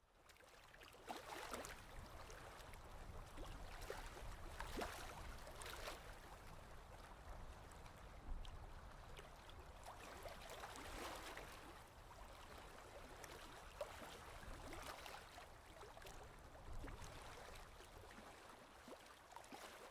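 Faint water sounds, gentle lapping and gurgling, with a low rumble and scattered small ticks and splashes.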